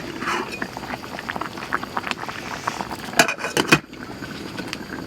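Meat sizzling on a charcoal grill over the embers of a wood fire, a steady crackle of small pops with a few louder snaps about three seconds in.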